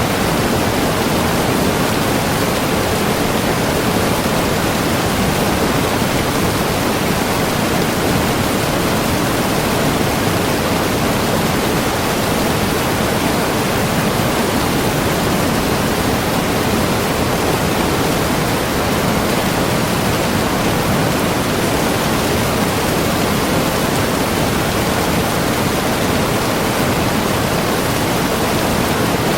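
Waterfall, a steady unbroken rush of falling water.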